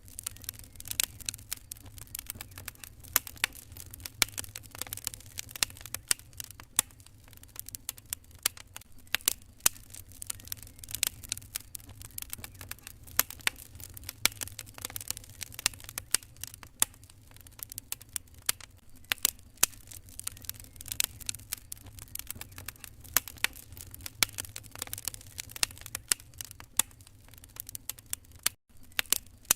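Wood fire crackling in a fireplace: dense, irregular sharp pops and snaps over a steady low rumble. The sound cuts out for an instant near the end.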